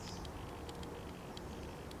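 Outdoor birdsong ambience in a pause between song phrases: a few faint, short high chirps over a steady low background noise.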